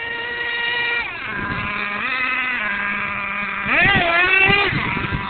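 Small nitro engine of an R/C monster truck running at high revs, a high-pitched whine that drops off about a second in, runs lower for a while, then revs sharply up and back down near the end.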